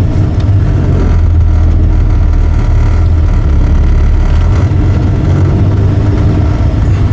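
Steady low rumble of a car in slow traffic, heard from inside the cabin: engine and road noise with no sharp events.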